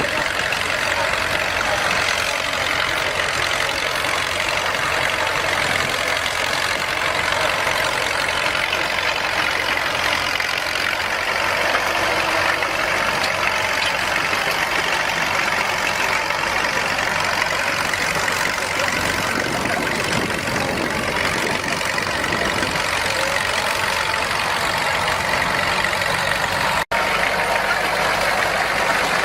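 Vintage tractor engine running steadily, with one very brief break near the end.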